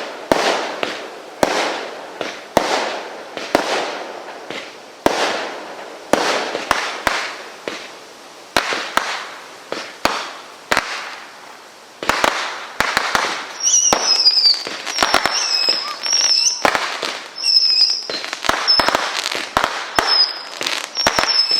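Laser Bombard firework cake firing shot after shot, about one bang a second, each trailing off in a crackling hiss. About twelve seconds in the shots come faster and closer together, with high whistling tones among them.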